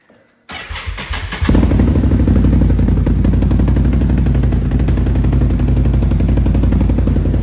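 Can-Am Outlander Gen 2 850 ATV's V-twin engine with a Yoshimura exhaust: a short clatter about half a second in, then the engine running loud and steady.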